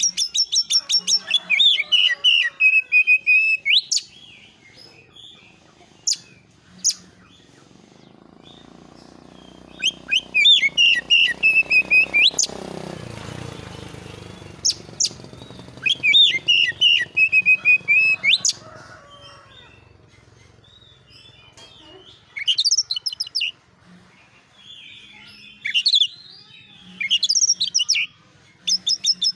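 Oriental magpie-robin (kacer) singing agitated bursts of fast, sharp chirps and whistled notes, about five phrases separated by short pauses. A faint low rushing sound swells and fades midway.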